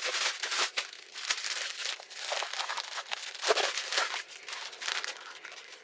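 Packaging crinkling and rustling as it is handled and opened, in irregular crackles.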